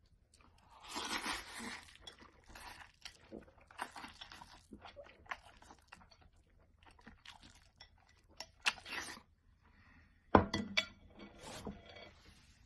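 Someone eating noisily: irregular crunching and chewing, with a sharp knock about ten seconds in.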